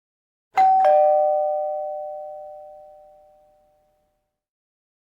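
Two-tone doorbell chime: a higher 'ding' then a lower 'dong' struck about a quarter second apart, both ringing out and fading over about three seconds.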